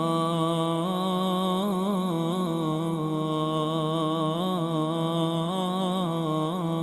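Islamic nasheed sung without instruments: a single voice holds one long melismatic phrase, its pitch wavering up and down.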